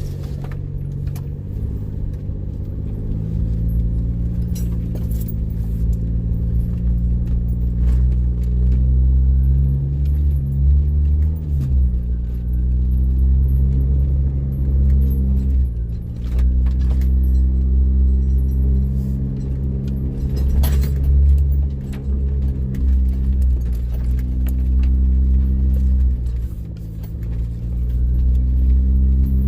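A motor vehicle's engine running while driving a forest road, its pitch rising and dropping several times, with rattling and scattered knocks from the vehicle.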